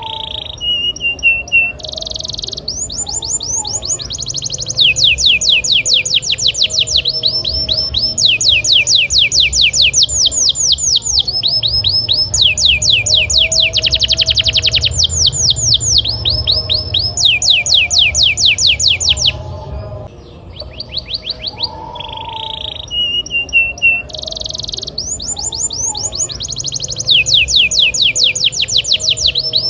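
Canary singing a long, loud song of fast trills: runs of rapid downward-sweeping notes, each run lasting a second or two before switching to another, with a brief pause about twenty seconds in.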